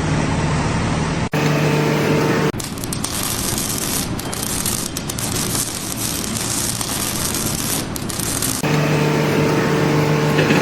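Loud machinery noise with a steady hum. It is interrupted by abrupt cuts, with a harsher, crackling stretch in the middle before the hum returns near the end.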